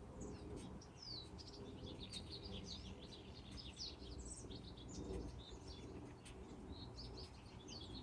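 A flock of small birds chirping together, a dense, unbroken chatter of short, high, overlapping calls, over a low background rumble.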